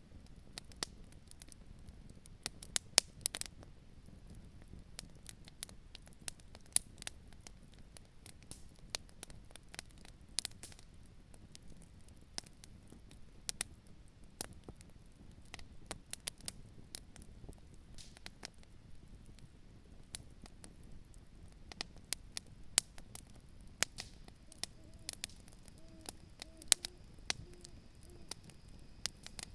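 Campfire crackling: irregular sharp pops and snaps, some much louder than others, over a steady low rush.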